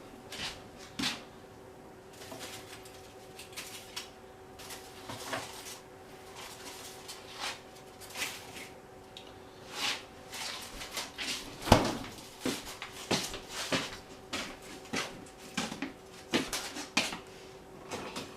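Scattered light clicks and knocks of kitchen utensils and dishes being handled while an egg wash is readied and brushed on, with one sharper knock about twelve seconds in, over a faint steady hum.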